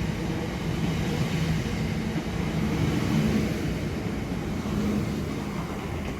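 Southeastern Class 465 Networker electric multiple unit passing through, wheels on rails and traction equipment giving a steady rumble with a faint low hum, easing off slightly near the end as it moves away.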